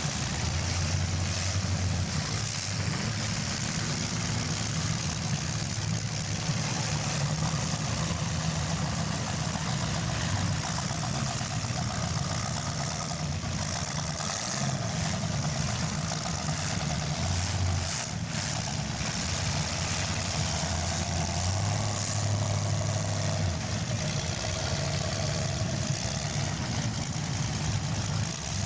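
Engines of full-size demolition derby cars running together, a steady low rumble with some revving.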